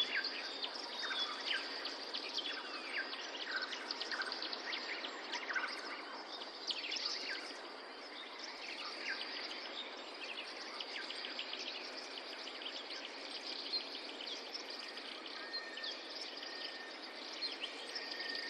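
Many birds chirping and whistling in quick, overlapping calls over a steady background hiss.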